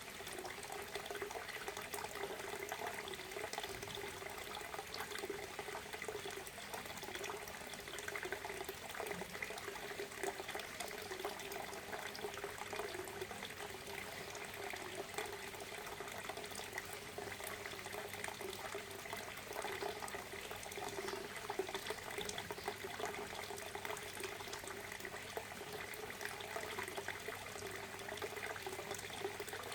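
Waterfall: water falling and splashing steadily without pause.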